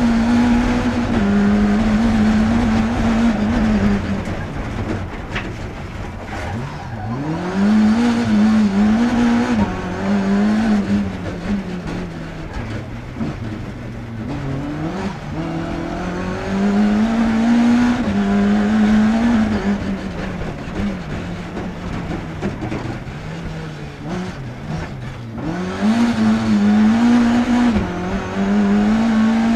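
BMW E30 318 kitcar rally car's engine at racing pace, heard from inside the cabin: held at high revs, dropping at each upshift, falling away when the throttle is lifted, then revving back up through the gears. Road and tyre noise runs underneath.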